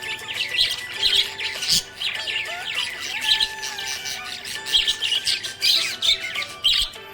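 Budgerigars chirping in rapid, dense bursts of high notes throughout.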